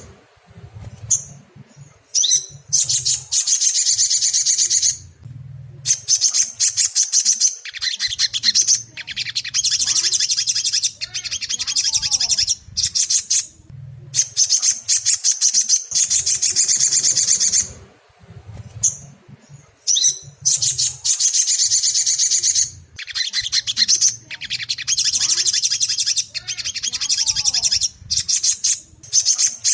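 Little spiderhunter (sogon) song: loud, rapid, high-pitched chattering delivered in bursts of one to several seconds with short pauses between them.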